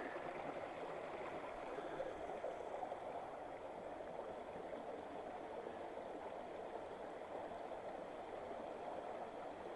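Mountain river water rushing over rocks in a steady, unbroken rush.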